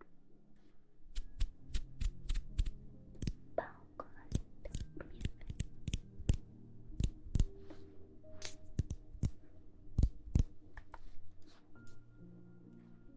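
Close-miked ASMR trigger sounds: irregular sharp taps and clicks, a few each second, over a faint steady hum.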